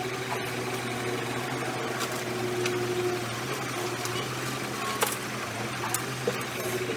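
Engine of a heavy earthmoving machine running steadily, with a few sharp clicks about two, five and six seconds in.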